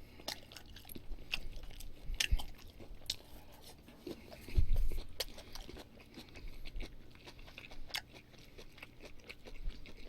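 Close-miked chewing of grilled pork belly and duck: wet mouth clicks and light crunching, with a louder low thump about four and a half seconds in.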